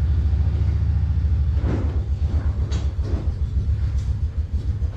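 A vehicle engine running with a low, rapidly pulsing rumble, with a couple of short knocks or rattles about two and three seconds in.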